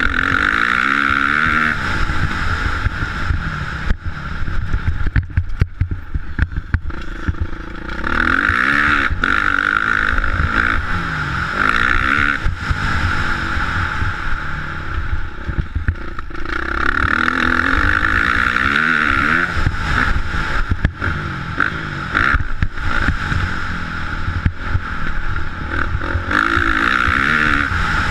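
Motocross motorcycle engine revving up and easing off over and over while riding, its pitch swinging up and down. It is louder in several long stretches.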